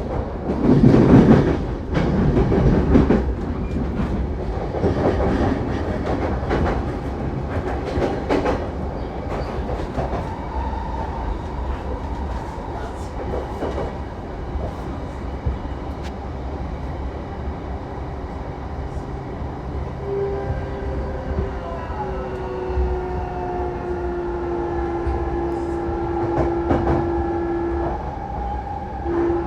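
Saikyo Line electric commuter train running, heard from inside the car: a steady rumble with wheels clattering over rail joints, loudest in the first several seconds. From about two-thirds in, a motor whine appears and slowly falls in pitch as the train slows.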